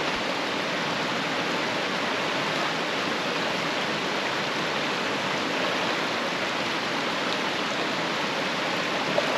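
Water rushing steadily, an even wash of noise with no breaks.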